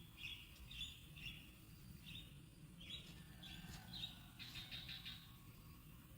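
Faint bird chirping: a string of short, high cheeps at irregular intervals, with a quicker run of them near the end, over a low steady rumble.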